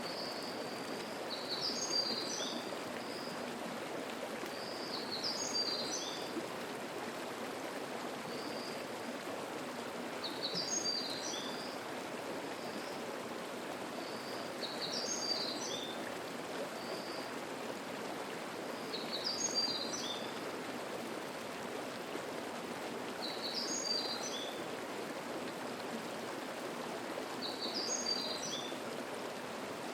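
Mountain stream flowing steadily, with a small bird singing a short, high phrase about every four seconds, seven times in all, and faint single notes between the phrases.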